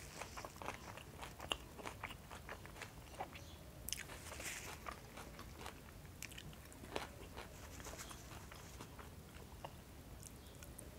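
Close-miked chewing of çiğ köfte sushi rolls topped with pickle slices: faint, irregular mouth clicks, a few of them louder.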